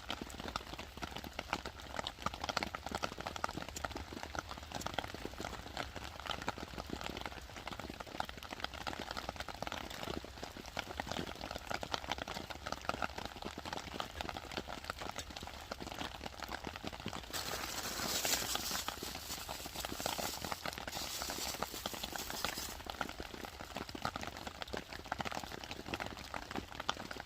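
Steady dense pattering of rain, with a louder hiss for about five seconds some two-thirds of the way in.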